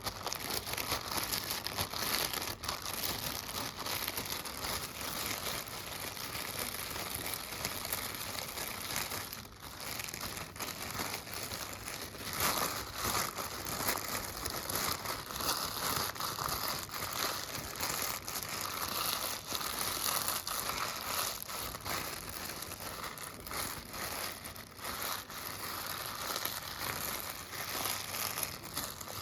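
Keys of a computer keyboard being tapped in a fast, continuous run of clicks, with a brief lull about nine seconds in.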